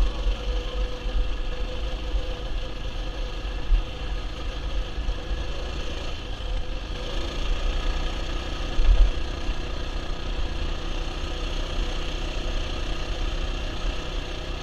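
Mini bike's small engine running steadily, its note shifting slightly about seven seconds in, with a louder low thump about nine seconds in.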